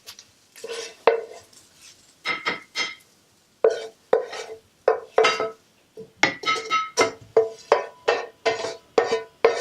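A utensil repeatedly striking a ringing bowl, a sharp clink with a short ring each time. The strikes are scattered at first and come about three a second in the second half, like beating or tapping in the bowl.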